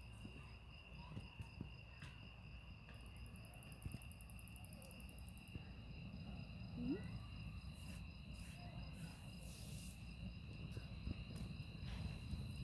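Crickets chirping steadily, several at different pitches, with a faster high trill joining about three seconds in and a few faint clicks over a low rumble.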